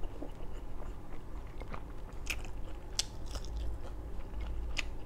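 A person chewing and biting crunchy fried food, with three louder sharp crunches among softer chewing.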